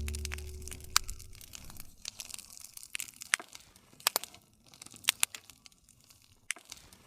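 Wood fire crackling, with irregular sharp pops and snaps from the burning logs; the last low guitar chord dies away during the first second.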